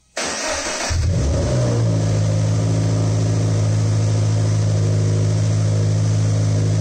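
Toyota GT86's 2.0-litre flat-four engine being started: a short burst of cranking, then it catches about a second in and settles into a steady idle.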